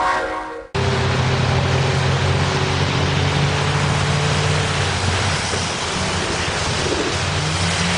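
A horn's chord fades out and stops abruptly just under a second in. A heavy vehicle's engine then drones steadily under a loud, even rush of wind-like noise.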